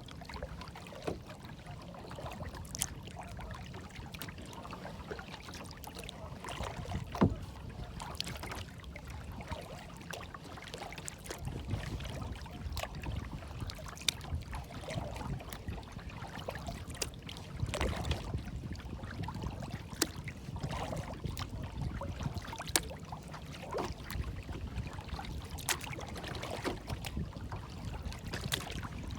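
Moving water lapping and trickling over a steady low rumble, with scattered small splashes and drips.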